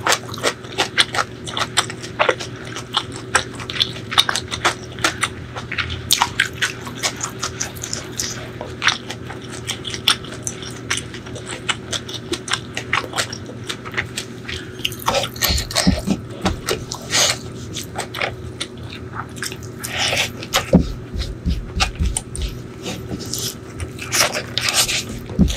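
Close-miked eating of spicy chicken liver and gizzard curry: continuous wet chewing with quick mouth clicks and smacks. Near the end comes a louder bite into a mouthful eaten by hand.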